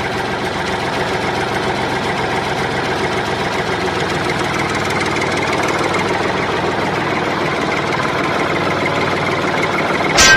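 Tractor engine running steadily at idle, with a sharp click near the end.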